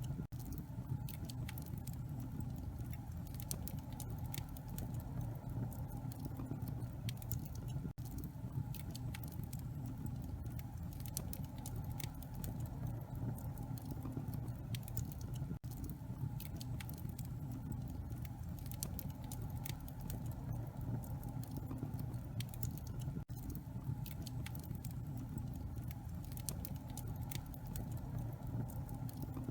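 Wood fire burning in a fireplace: frequent sharp crackles and pops over a steady low rumble, the sound cutting out for an instant about every eight seconds.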